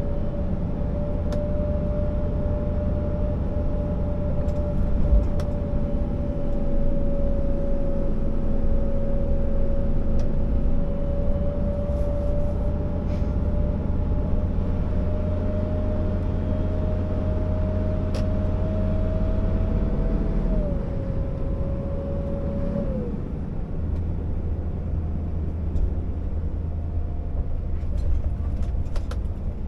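Scania R650 timber truck's V8 diesel running under load, a steady low drone with a whining tone that climbs slowly and then steps down twice, about twenty and twenty-three seconds in.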